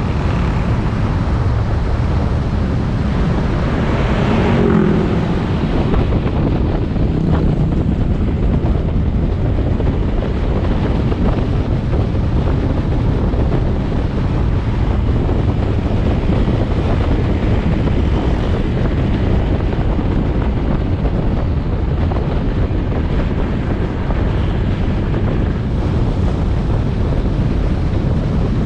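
Motorbike riding on the road: the engine runs under steady wind rumble on the action-camera microphone, with a brief louder swell about four seconds in.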